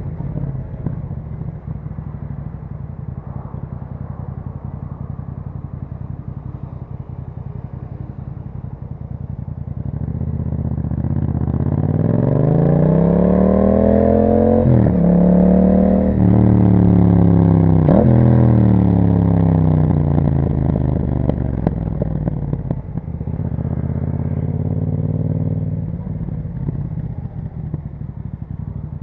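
2021 Yamaha MT-07's parallel-twin engine through an Akrapovic exhaust, running steadily at low revs, then revving up through two quick upshifts about halfway through. It then eases off and settles back to a steady low run.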